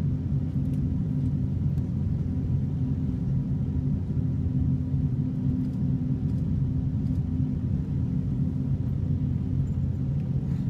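Airbus A350-941 on takeoff, its Rolls-Royce Trent XWB engines and airframe giving a steady low rumble with a few held low hums, as heard inside the cabin.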